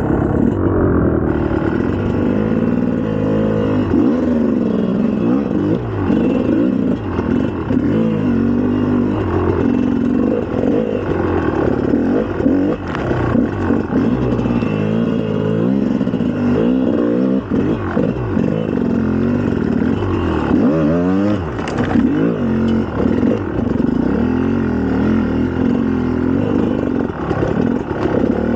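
2004 GasGas EC300 two-stroke single-cylinder dirt bike engine under way, its pitch rising and falling again and again as the throttle is worked.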